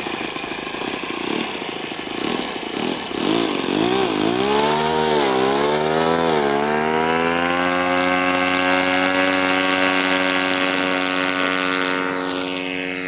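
Model airplane engine turning a propeller: an uneven idle at first, then the throttle opened and closed a few times so the pitch swings up and down, then held at steady high revs from about halfway.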